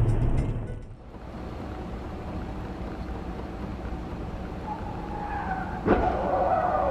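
Car tyres squealing in a skid over steady road noise, with one sharp knock about six seconds in.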